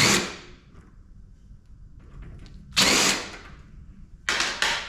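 Cordless drill/driver run in short bursts, backing screws out of a PTAC air-conditioner's sheet-metal casing: one burst at the start, another about three seconds in, and two quick ones near the end.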